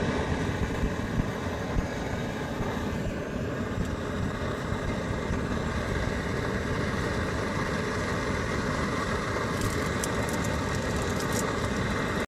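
A motor vehicle engine running steadily, a dense low rumble.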